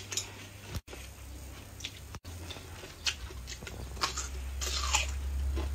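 Crisp crunching of a raw red radish being bitten and chewed: scattered sharp crunches, with the densest crunching about five seconds in, over a low steady hum.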